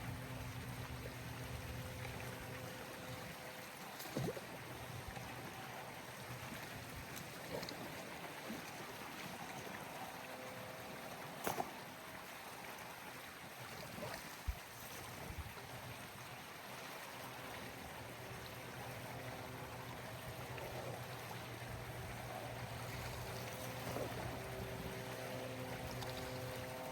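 Water running and splashing steadily, with a steady electric motor hum that drops away for a stretch in the middle and comes back. A few scattered knocks.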